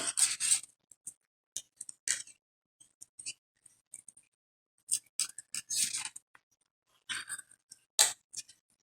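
Plastic pony beads clicking together and aluminum craft wire scraping through them as the wire is threaded and pulled tight. The sounds come in short, irregular clicks and rustles with quiet gaps between.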